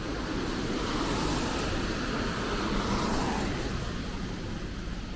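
A road vehicle passing close by: its engine and tyre noise swells up, peaks, then falls away with a dropping pitch, over steady city traffic hum.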